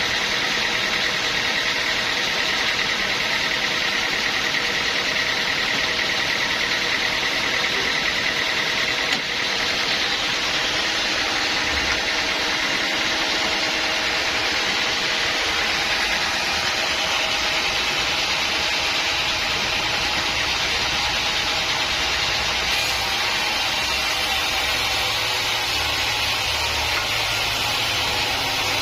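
Sawmill machinery running steadily, a continuous mechanical noise without a break.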